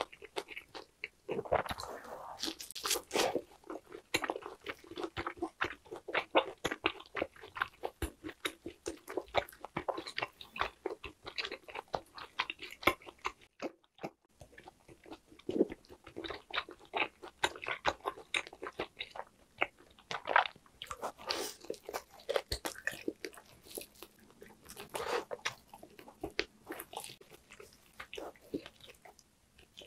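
Close-miked biting and chewing of grilled lamb rib meat: a dense run of wet smacks and clicks, with a short silent break about halfway through.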